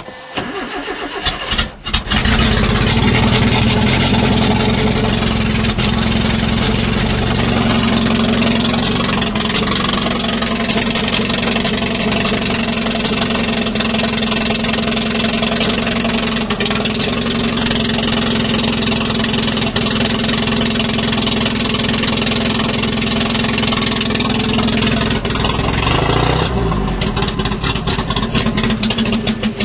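Datsun 210's carbureted four-cylinder engine cold-starting: about two seconds of choppy cranking, then it catches and runs at a steady fast idle. About 26 s in the running turns choppier and uneven. The engine is cold, running on four-to-five-year-old gas through a carburettor the owner tags as flooded.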